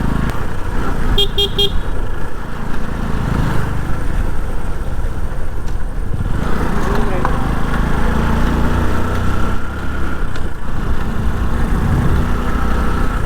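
Bajaj Pulsar 125 motorcycle riding along, its single-cylinder engine running steadily. A horn beeps three short times about a second in.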